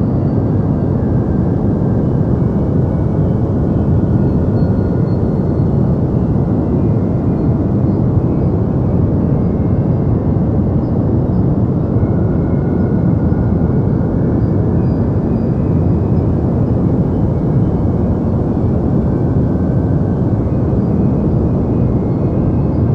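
Steady deep white noise: an even, dull rush with most of its weight in the bass and little treble, unchanging throughout.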